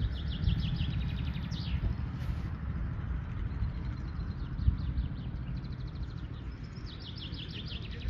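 A songbird singing twice: a fast run of high repeated notes ending in a downward slur, once at the start and again near the end. A steady low rumble lies underneath.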